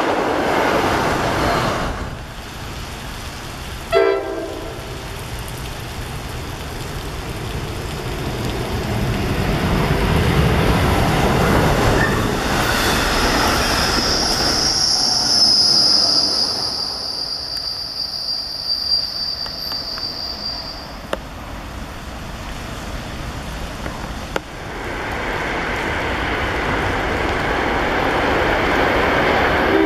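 New Jersey Transit commuter trains passing on wet rails: a stainless-steel train rushes by close, then a short horn blast sounds about four seconds in. A second train rumbles past on the far track with a long, steady, high-pitched wheel squeal.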